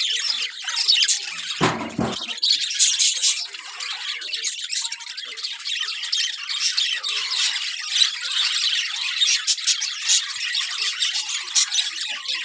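A large flock of birds squawking and chattering all at once in a dense, continuous chorus. A brief low rumble cuts in about two seconds in.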